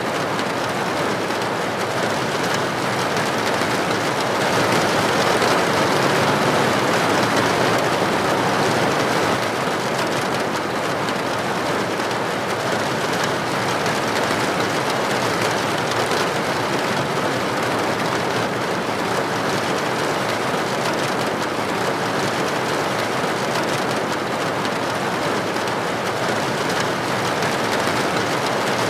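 Steady heavy rain, a dense even hiss of many drops falling on a surface, swelling slightly a few seconds in.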